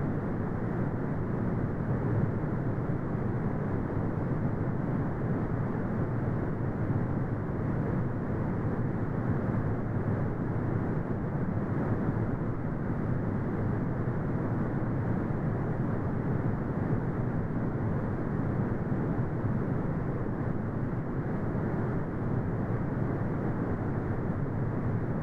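Continuous brown noise: a steady, deep rumbling hiss, strongest in the low end and dull in the highs, with no changes.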